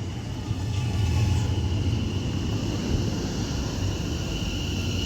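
Two coupled Class 730 electric multiple units pulling into the platform. A low rumble is loudest about a second in, with a steady high whine above it.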